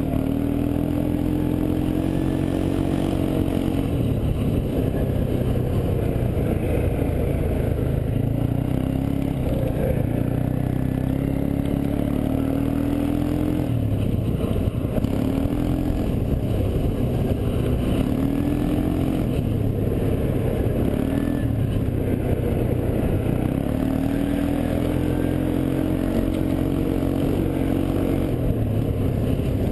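ATV engine running under way, its pitch rising and falling again and again as the throttle opens and closes, with some knocks and rattles.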